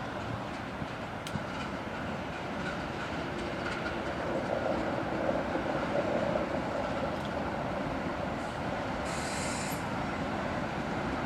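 Freight train rolling past: a steady rumble of wheels on rail that swells slightly midway, with a brief hiss near the end.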